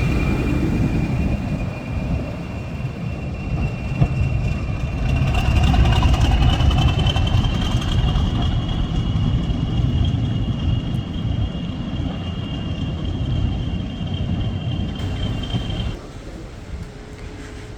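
Heritage diesel locomotive passing through a station: a heavy engine rumble with a steady high whine that rises slightly in pitch about six seconds in. The sound cuts off suddenly near the end.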